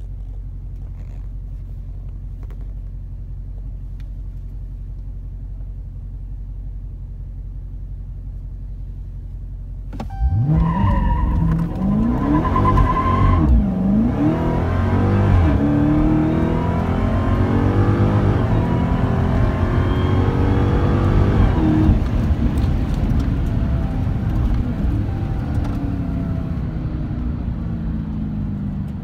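Hellcat's supercharged 6.2-litre HEMI V8 idling, then launching hard about ten seconds in: the revs climb and step through the gears, with a high, steady tyre squeal for about three seconds after the launch. Near the end the throttle comes off and the engine note falls away as the car coasts.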